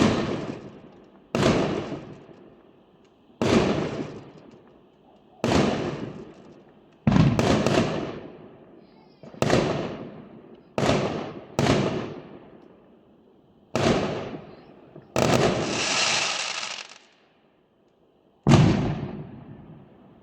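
Fireworks going off: about a dozen sharp bangs, each dying away over a second or so, two of them in quick succession about seven seconds in. Near the end comes a longer crackling burst lasting about two seconds.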